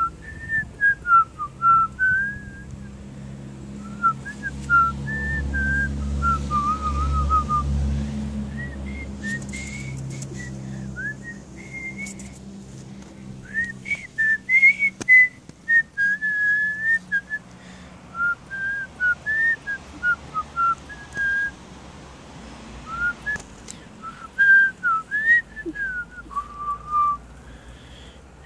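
A person whistling a tune: a single clear whistled melody in short phrases of rising and falling notes, pausing now and then. A low rumble runs under it for roughly the first ten seconds.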